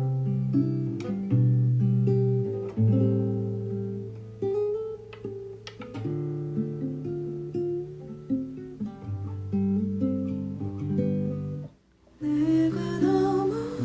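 Acoustic guitar playing picked and strummed chords in an instrumental passage between sung lines. It cuts out abruptly near the end, and then guitar starts again with a voice.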